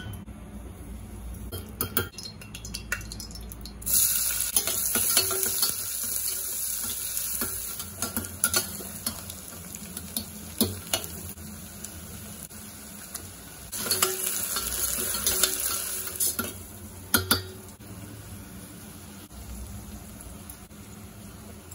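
Chopped onions sizzling in hot oil in a stainless steel pressure cooker, stirred with a metal slotted spoon that scrapes and clicks against the pot. The sizzle rises sharply about four seconds in and again around fourteen seconds.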